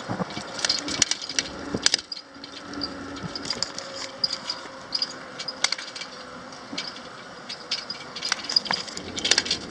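A run of irregular sharp clicks and ticks over low background noise.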